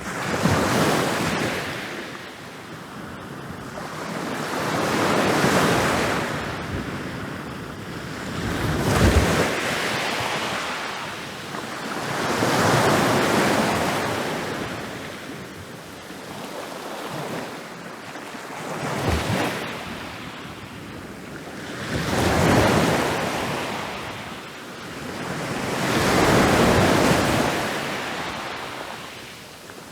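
Ocean waves rolling in and breaking on a beach, the surf swelling and fading about seven times, every three to four seconds. The breakers about 9 and 19 seconds in come in sharpest, with a low thump.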